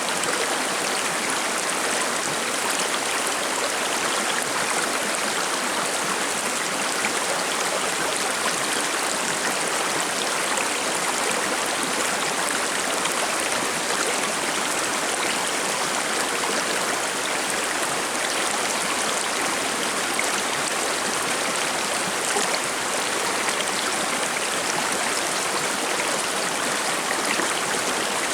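Forest stream flowing and babbling over stones: a steady, even rush of water.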